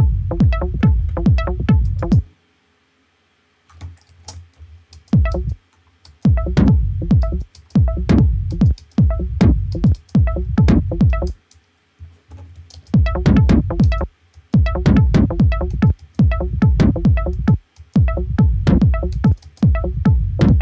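Techno loop from a drum machine and synthesizer played back in a DAW: a steady driving beat of heavy kick hits under pitched percussion, likely the newly added tom for groove. Playback cuts off about two seconds in, comes back thinly, then restarts and breaks off briefly a few more times.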